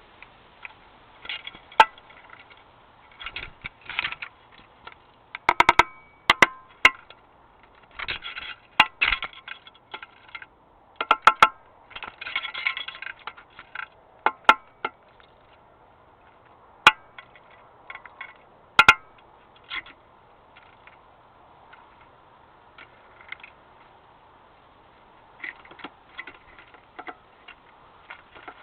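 A woodpecker pecking at a trail camera, its bill knocking on the camera housing right by the microphone. The knocks are sharp and irregular, some single and some in quick flurries, and they thin out in the second half.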